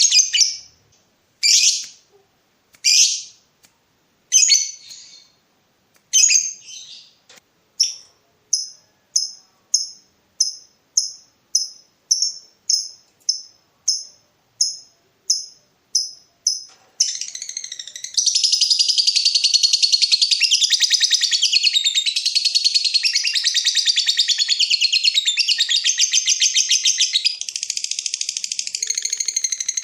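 Lovebird song. It opens with separate shrill calls about every second and a half, then a run of short chirps about two a second. From about eighteen seconds in it breaks into an unbroken fast chattering trill, the long 'ngekek' used as a bait call to set other lovebirds singing.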